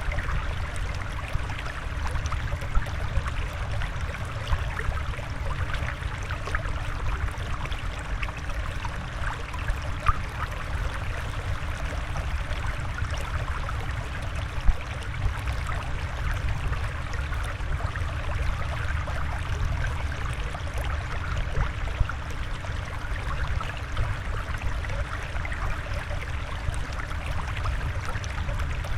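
Steady flowing, trickling water of a fish-tank soundscape, with a few brief louder drips or pops scattered through it.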